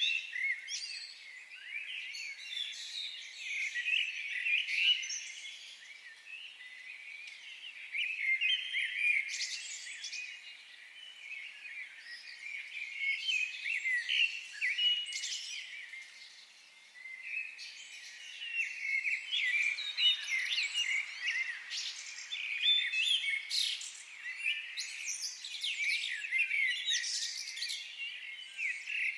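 Several songbirds chirping and trilling without a break, their notes short and high-pitched, often overlapping, and coming in fuller and quieter spells.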